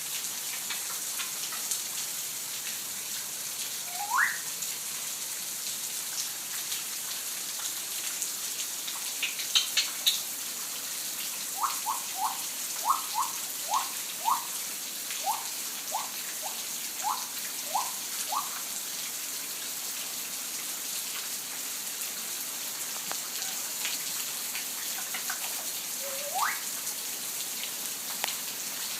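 Steady rain falling, with a bird's rising whistled calls over it: one about four seconds in, a quick run of about a dozen short rising notes in the middle, and another near the end.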